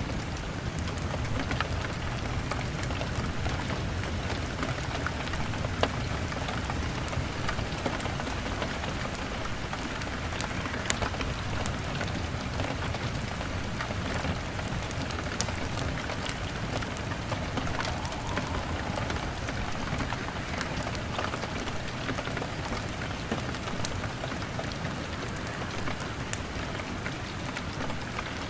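Steady heavy rain beating on a window, with a low rumble underneath and a log fire's sharp crackles and pops scattered throughout.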